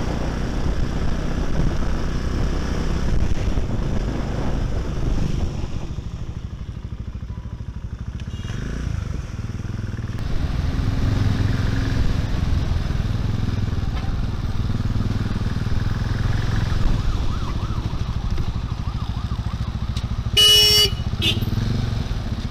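A 400cc Bristol Classic 400i motorcycle running on the road, its engine note dipping and then picking up again around the middle. Near the end a vehicle horn honks briefly, twice.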